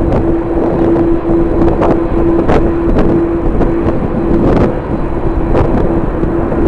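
Strong wind buffeting the microphone in a continuous low rumble, over a steady droning hum and a few short clicks.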